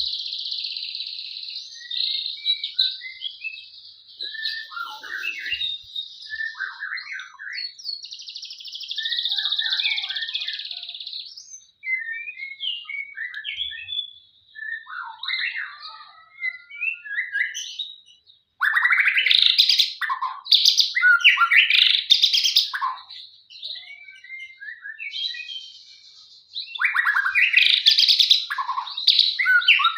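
A male murai, a Copsychus songbird, singing a long varied song of quick whistled phrases and chirps, broken by a high trilling run, with louder, denser bursts of song about two-thirds of the way in and again near the end.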